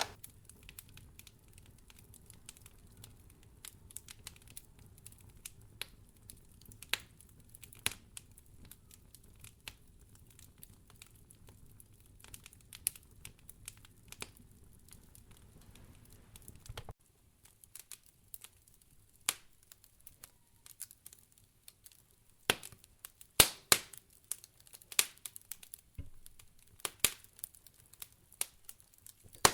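Wood fire crackling in a fireplace: irregular sharp pops and snaps over a faint low rumble that drops away about halfway through. The pops grow louder and come more often near the end.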